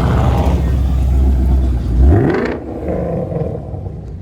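Car engine running with a deep steady drone, then revving once about two seconds in with a quick rise in pitch, and dropping off quieter as the car pulls away.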